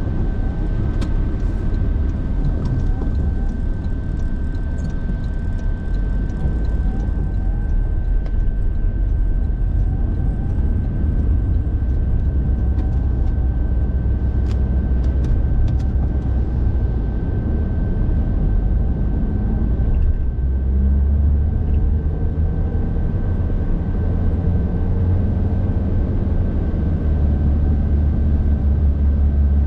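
Car driving noise, a steady low rumble of engine and road, with a thin steady whine above it and a few scattered sharp clicks in the first half. About twenty seconds in, the engine note grows stronger.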